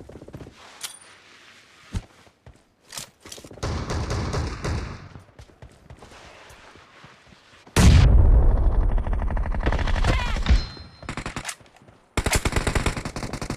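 Gunfire in a shooter video game: scattered single shots, then a long loud burst of fire about 8 seconds in lasting two or three seconds, then rapid automatic fire near the end.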